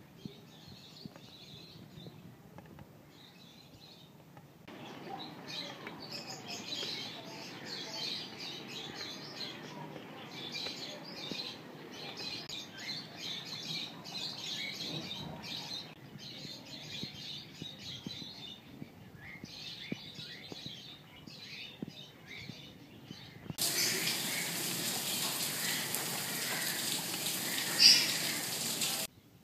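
Rain falling on leaves and ground, with many small birds chirping. The rain's hiss steps up abruptly about 5 s in and again about 24 s in, becoming much louder and brighter, with a short loud sound near the end.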